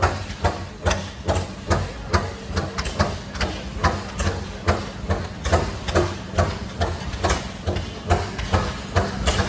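Antique gasoline engine running, with a sharp, even exhaust bang about twice a second over a steady low hum.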